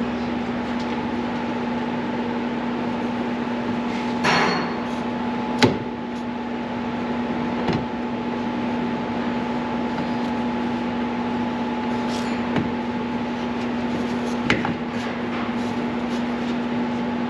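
A steady hum runs throughout, with a few scattered clicks and knocks of hand tools on metal as a car's rear differential pinion yoke and nut are fitted. One knock a little over 5 seconds in is the sharpest.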